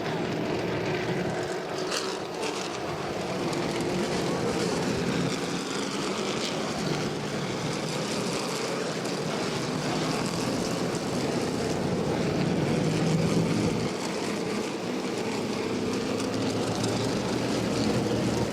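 A field of modified race cars circling at caution pace, their engines droning steadily and swelling louder as the pack passes, loudest near the end.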